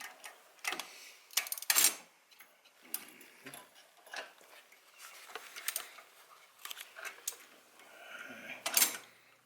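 Irregular metallic clicks and clinks of a ratchet and socket as spark plugs are threaded in and snugged down by hand, with a louder cluster of clinks about a second and a half in and another near the end.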